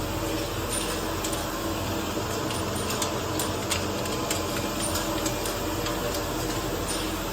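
Automatic twist-type ampoule and vial bottle washing machine running: a steady mechanical hum with scattered light clicks.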